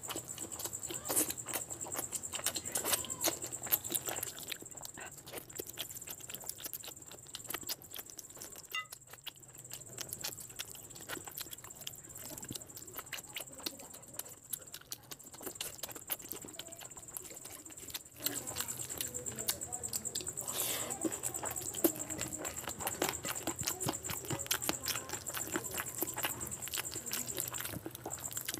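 Close-miked eating sounds: a man chewing mouthfuls of rice and curried chicken, with rapid wet smacks and clicks, quieter through the middle and busier again about two-thirds of the way through.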